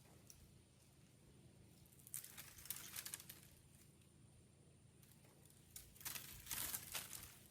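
Faint rustling and crackling in two spells, about two seconds in and again about six seconds in, over a low steady background hum.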